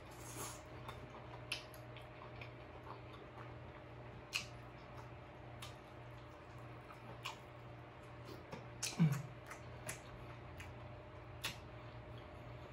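Wet mouth smacks and clicks of a person chewing king crab meat, sharp and scattered every second or two. About nine seconds in comes a louder cluster of smacks with a short low "mm" from the eater's throat.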